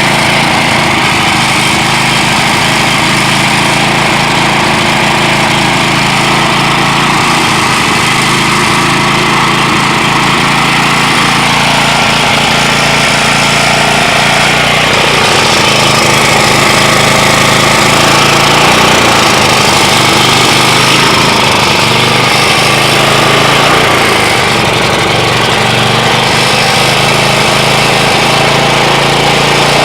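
A 5,000-watt portable generator's engine running steadily and loudly, fed only gasoline fumes sucked from a sealed tank into its air intake rather than liquid fuel through the carburetor.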